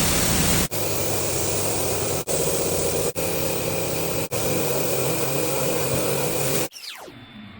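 Automatic car wash machine running: a loud, steady rush of spray over a low machine hum, broken by several abrupt cuts. Near the end it gives way to quieter swooping electronic tones.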